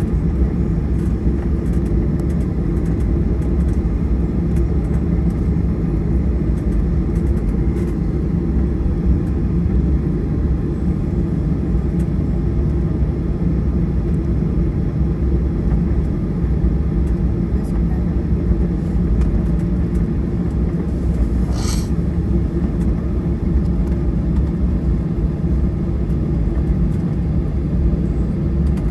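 Boeing 737-800's CFM56-7B turbofan engines running steadily, heard inside the cabin toward the rear as a loud, even low rumble. A brief sharp click sounds about two-thirds of the way through.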